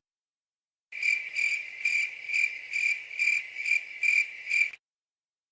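Cricket chirping sound effect, the stock meme cue for an awkward silence: about nine even chirps, roughly two a second, starting about a second in and cutting off abruptly.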